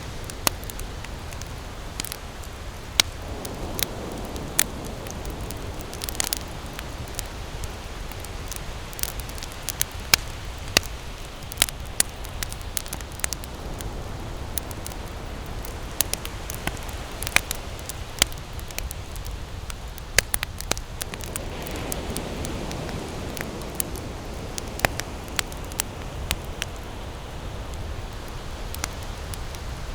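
Wood campfire burning with frequent irregular sharp crackles and pops over a steady low rush, which swells twice, about three seconds in and again past the twenty-second mark.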